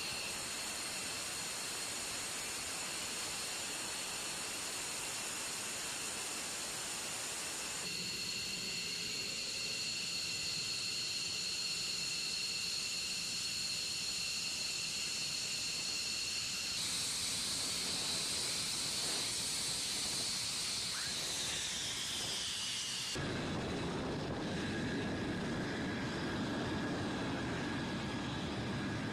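Jet engine running with a steady hiss and several high whining tones. The whine falls in pitch between about 17 and 23 seconds in, and the sound shifts abruptly a few times, as between edited shots.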